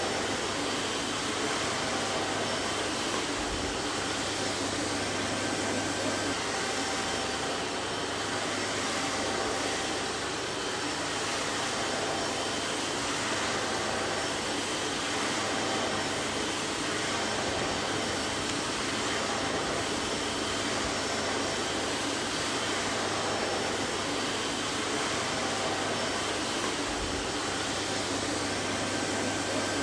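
Vacuum cleaner running steadily, an even rushing of air with a faint steady hum in it.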